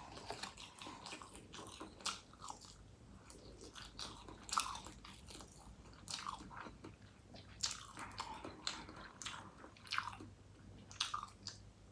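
Close-miked mouth sounds of a person chewing and eating: soft wet smacks and clicks every second or so, with a few louder ones. Near the end she bites into a piece of spicy salted cod roe.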